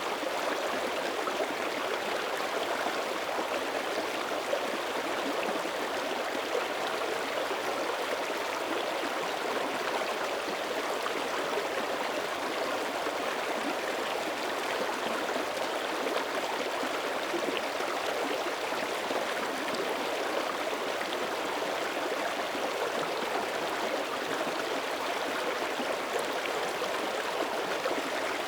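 Small mountain creek flowing steadily over rocks: an even, unbroken babble of running water.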